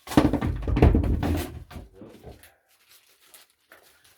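Handling of packaging and parts on a workbench: a dense run of rustling, knocks and clicks for about two seconds, then a few faint clicks.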